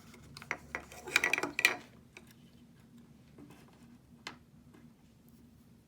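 Hands handling plastic toy packaging: a burst of rustling and clicks about a second in, then scattered clicks and a single sharp click a little after four seconds.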